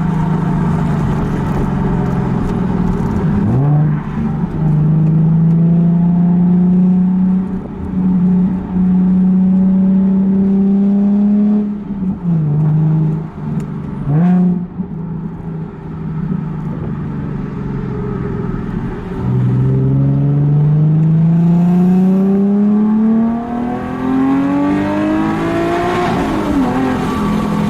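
Nissan 370Z's 3.7-litre V6 accelerating through the gears: the engine note climbs steadily with each pull and drops sharply at each upshift, with the longest climb in the second half.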